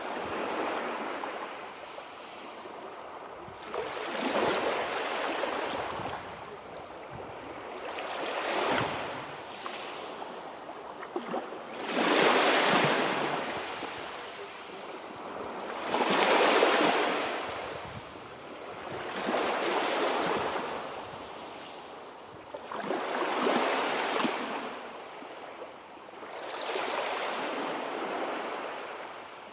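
Sea waves breaking and washing in surf, one swell of rushing water about every four seconds, some louder than others.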